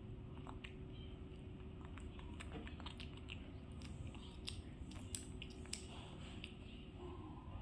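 Faint, irregular clicks and mouth smacks of a baby macaque and a toddler chewing soft bread rolls, over a low steady room hum.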